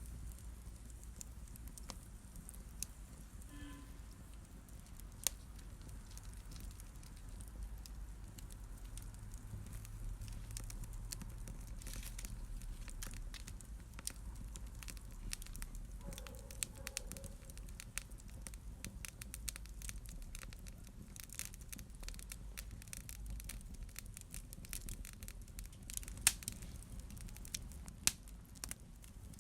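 Wood fire in a fireplace crackling: frequent sharp pops and snaps, coming thicker in the second half, over a low steady rumble of the burning.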